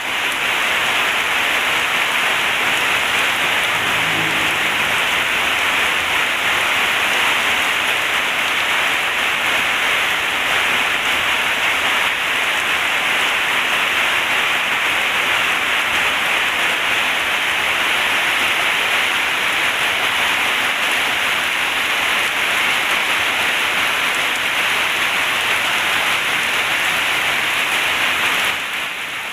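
Heavy rain pouring down steadily, a dense even hiss that eases slightly just before the end.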